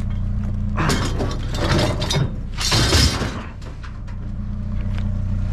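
Scrap steel being handled, rattling and clanking for a second or so, then a louder crash about three seconds in. A vehicle engine idles steadily underneath.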